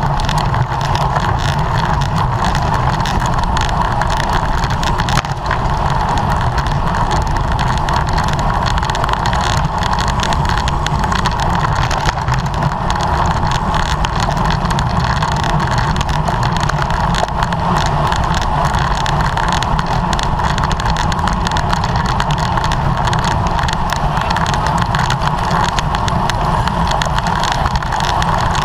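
Steady, loud wind rush and road noise on the microphone of a camera carried on a racing bicycle at speed, heavy in the low rumble.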